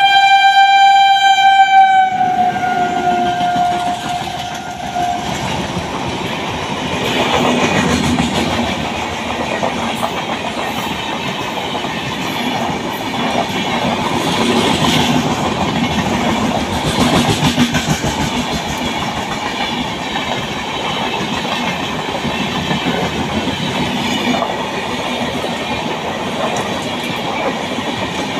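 Electric locomotive of an express train sounding one long horn blast at speed, the horn dropping in pitch as it passes. Then the steady rumble and wheel clatter of its LHB passenger coaches rushing past at speed.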